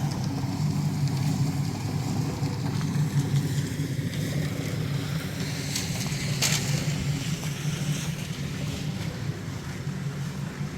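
An engine running steadily at an even speed, with two short clicks about six seconds in.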